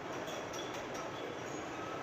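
Metal lathe running, a steady mechanical noise with faint light clinks over it.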